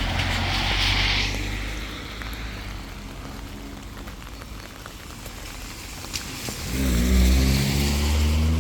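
A car going by, its tyre hiss and rumble loudest in the first second, then a second vehicle's engine hum growing louder from about seven seconds in.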